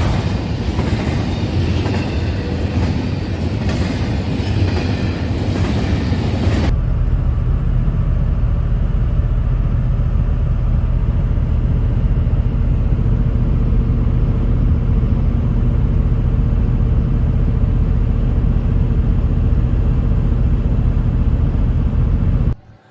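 Truck driving at road speed: loud road and wind noise at first, then, after a cut about seven seconds in, a steady low engine drone with a faint hum, like the inside of a cab. The sound drops away just before the end.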